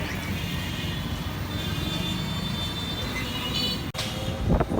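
Steady road-vehicle rumble with faint high ringing tones in the middle, a sharp click about four seconds in, and a brief thump near the end.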